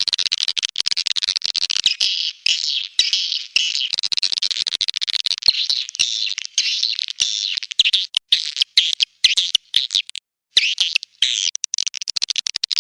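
Swiftlets' rapid, high-pitched twittering chirps from a recorded swiftlet call-lure track, the sound played to draw swiftlets into a nesting house. The dense chirping drops out abruptly several times for a split second.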